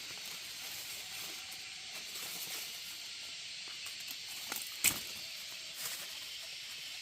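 Steady hiss of heavy rain falling, with a few sharp knocks, the loudest about five seconds in.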